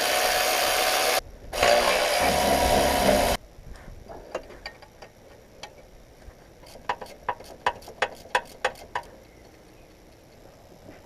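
A power tool running in two bursts, the first about a second and a half, the second about two seconds, during work on a car's clutch. This is followed by a quick run of sharp metallic clicks from hand tools about seven seconds in.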